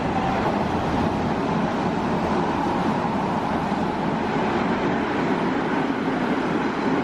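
Odakyu Line electric commuter train running through the station at speed without stopping: a steady rumble of its wheels on the rails.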